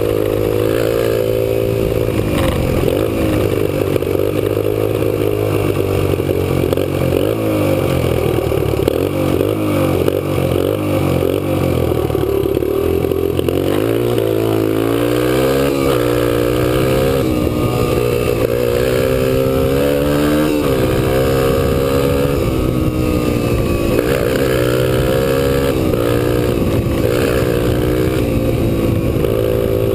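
Kawasaki KLX125 dirt bike's single-cylinder four-stroke engine running hard near top speed. Its pitch holds high for the first half, then drops and climbs again several times in the second half as the throttle is eased and reopened.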